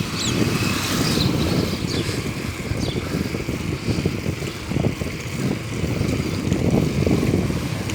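Wind buffeting the microphone of a handheld phone while riding an electric bike: a steady, uneven low rumble.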